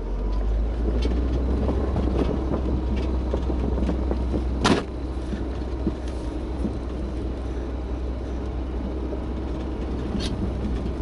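Car engine running steadily while the car rolls back down a snowy, icy hill, with the rumble of the tyres over snow. A single sharp knock about five seconds in.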